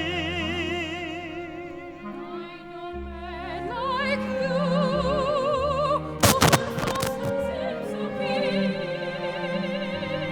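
Opera music from a small orchestra with sustained notes carrying strong vibrato. A brief cluster of sharp knocks comes about six seconds in and is the loudest moment.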